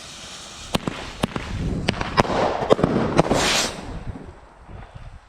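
Fireworks going off: a run of sharp, separate bangs over a rising crackle and hiss that swells into a loud rush about three and a half seconds in, then fades.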